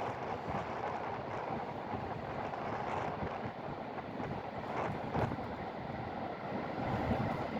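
Wind buffeting the microphone: a steady rushing noise with a fluttering low rumble that swells and eases in gusts.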